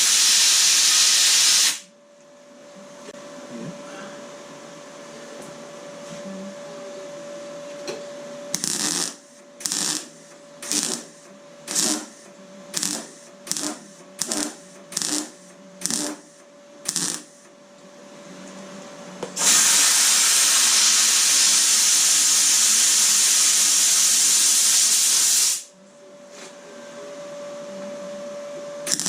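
MIG welder working on thin, rusty car door sheet metal: a steady hiss of welding, then a rapid series of about a dozen short stitch-weld bursts, then another run of about six seconds. A faint steady hum sounds in the gaps.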